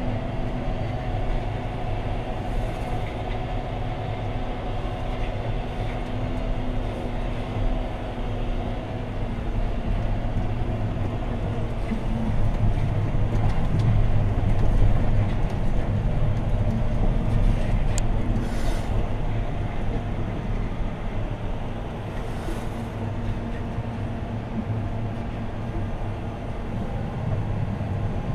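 John Deere 6215R tractor's six-cylinder diesel engine heard from inside the cab, running steadily while pulling a plough, growing louder for a few seconds around the middle.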